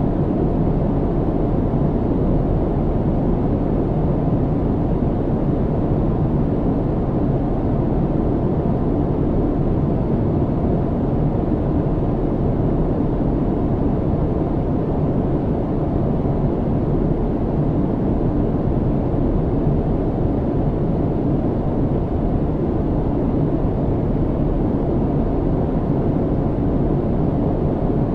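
Airliner cabin noise in flight: a steady, low, muffled rush of engine and airflow noise, unchanging throughout.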